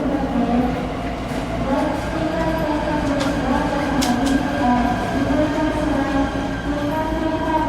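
Inside a Shinetsu Line passenger train: a steady low rumble under a wavering hum, with a few sharp clicks.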